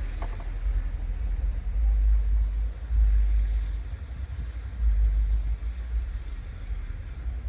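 Wind buffeting the microphone outdoors in a snowstorm: a low rumble that rises and falls in uneven gusts.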